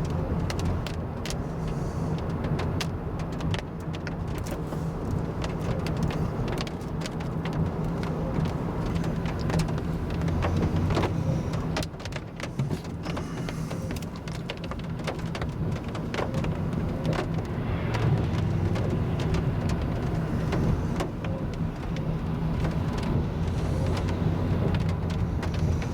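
A vehicle running with a steady low rumble, heard from inside the cabin, with scattered raindrops ticking on the car.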